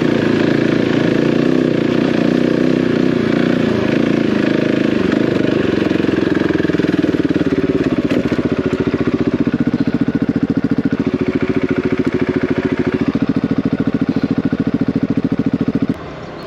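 Single-cylinder dual-sport motorcycle engine running under way off-road. The note is busier and uneven at first, then settles into an even thumping rhythm for the second half. The sound drops away suddenly near the end.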